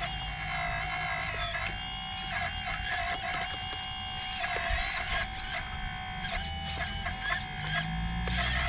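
Small electric motor of an RC excavator's hydraulic pump, whining steadily and dipping briefly in pitch every second or so as the load changes, with high chirps over it.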